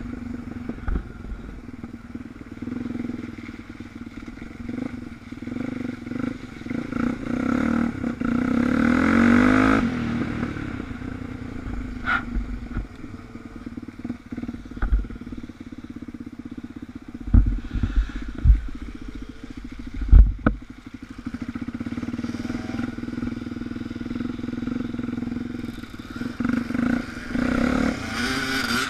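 Suzuki DR350's single-cylinder four-stroke engine running on the move, heard from a camera mounted on the bike. The revs climb about a third of the way in, and a few sharp knocks and thumps come past the middle.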